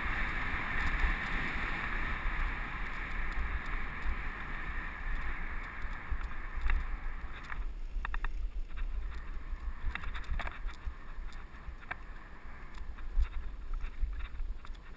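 Mountain bike riding on a dirt trail, heard from a helmet-mounted camera: wind buffeting the microphone and tyre rumble, with a steady hiss that fades about halfway, then scattered clicks and rattles.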